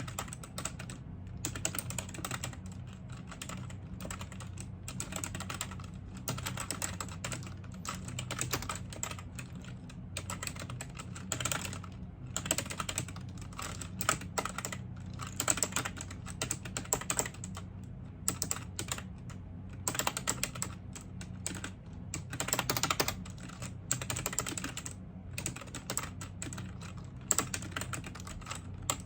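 Typing on a computer keyboard: fast, uneven runs of key clicks with short pauses between bursts, over a faint low hum.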